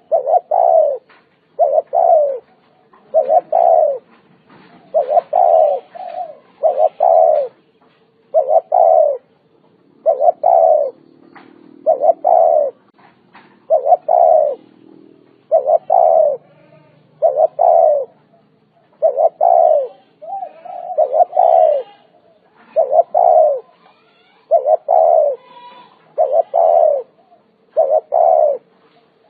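Spotted dove cooing, its falling coo notes repeated steadily about every second and a half to two seconds.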